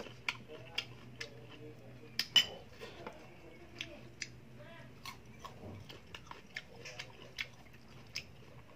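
Close-up crunching and chewing of crisp unripe green Indian mango slices, with irregular sharp crunches and clicks. The loudest come about two seconds in.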